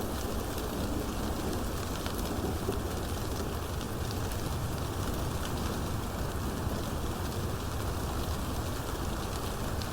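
Steady rain falling, with fine scattered drop ticks over an even hiss.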